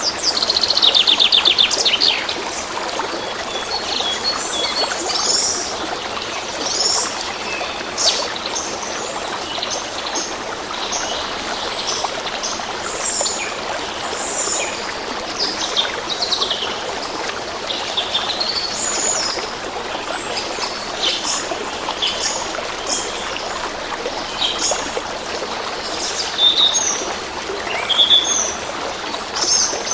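A stream trickling steadily, with many birds chirping and singing over it. It opens with a fast trill sliding down in pitch, the loudest call, followed by scattered short chirps and whistles.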